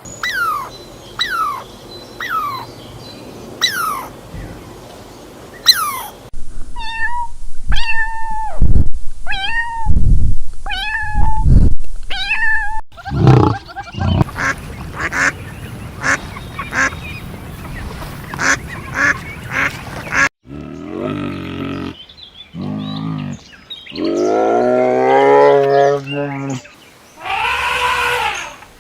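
A series of different animal calls spliced one after another. First come quick falling chirps, then a run of repeated pitched calls over low thumps, then rapid clicking, and finally long, wavering calls.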